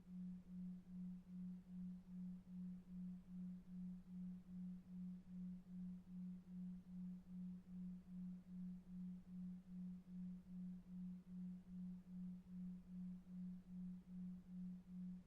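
A low, steady hum pulsing on and off evenly about two and a half times a second: a 2.5 Hz delta-wave sleep tone, over faint brown noise.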